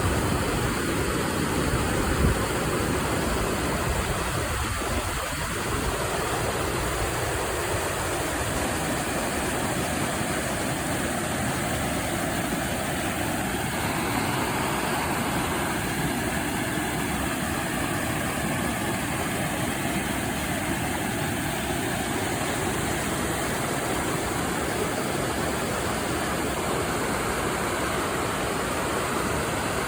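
Creek water rushing, a steady unbroken noise.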